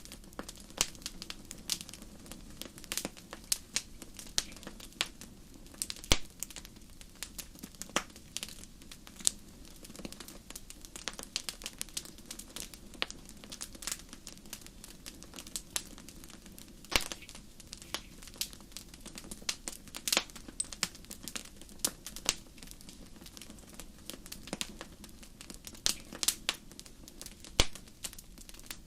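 Wood fire crackling and popping: frequent sharp irregular snaps over a steady low rush of flame.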